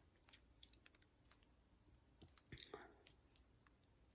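Near silence with faint, scattered small clicks and taps, with a soft cluster of them about two and a half seconds in.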